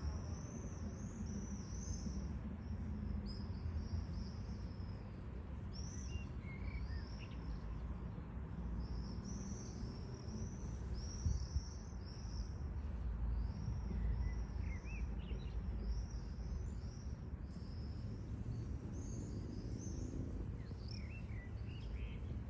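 Small birds calling, a continuous stream of short high chirps, over a steady low background rumble.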